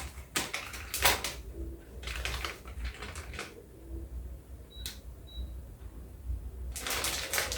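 Plastic snack packets being handled, in several short crinkling rustles with quiet gaps between.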